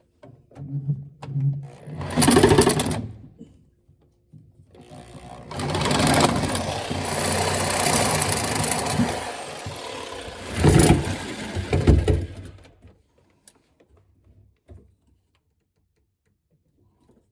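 Small power saw running in two spells, a short one about two seconds in and a longer one of about eight seconds, cutting through the water supply pipe below the shut-off valve.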